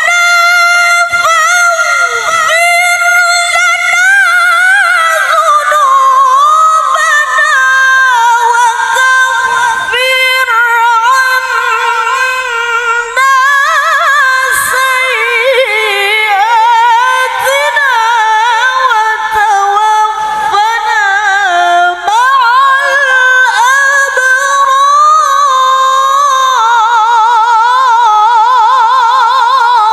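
A woman recites the Qur'an in melodic tilawah style: one long, high, ornamented vocal line with quick trills and gliding turns, broken only by a few short pauses. A wide, wavering vibrato closes the phrase near the end.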